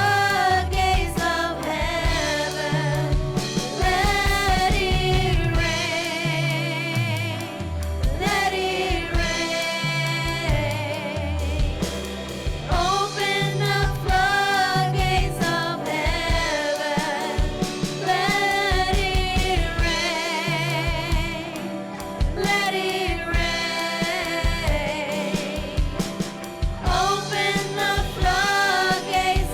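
Live worship band with singers performing a gospel-style worship song: sung lines with vibrato over a bass line and steady drum beats.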